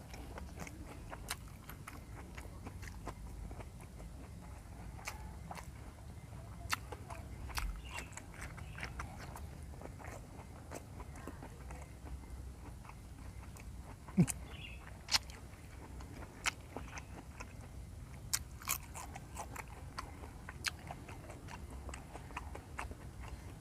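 Close-up chewing and crunching of raw vegetables (Sundanese lalapan), with irregular crisp crunches throughout and a few sharper, louder ones past the middle.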